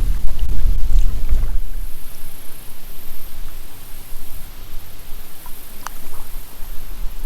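Kayak paddling on creek water: an even wash of water noise, with a low rumble for the first couple of seconds and a few faint clicks about six seconds in.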